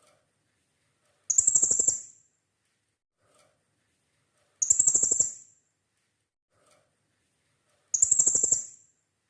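Blue-crowned hanging parrot (serindit) calling: three short, shrill bursts of rapid pulses, each under a second, repeated at even intervals about three seconds apart.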